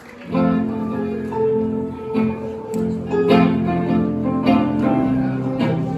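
Live band playing the instrumental intro of a song, starting about a third of a second in with plucked strings and sustained notes.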